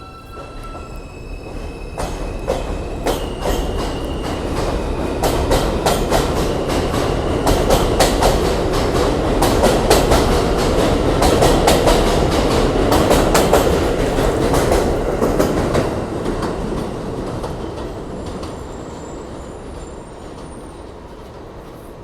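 A New York City subway train on an elevated line pulling out and passing by. A rising motor whine comes first, then wheels clattering over rail joints, loudest about halfway through, before fading away.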